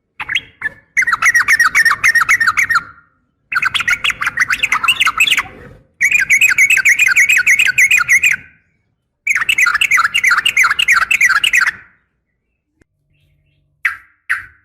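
Female yellow-vented bulbul (trucukan) calling: four long runs of fast repeated chattering notes, each about two to three seconds long with short pauses between, with a couple of short single calls at the start and near the end.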